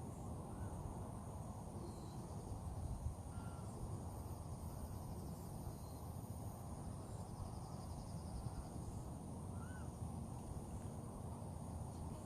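Faint outdoor nature ambience: a steady high insect drone over a low steady rumble, with a few short, faint bird calls scattered through it.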